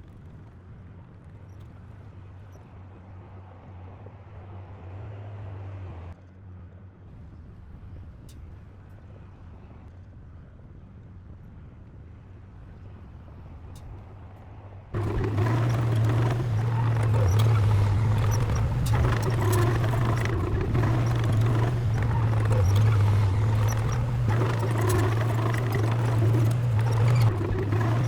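Diesel engine of heavy earthmoving machinery running steadily, faint at first, then much louder from about halfway through with a rattle of metal clanks over it.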